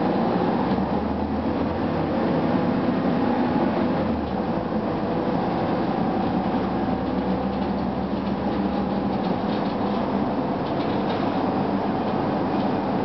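Steady running noise of a 2004 Gillig Phantom transit bus, its Cummins ISM diesel and HVAC system on. A low engine drone shifts in pitch about four seconds in and fades out about eight seconds in.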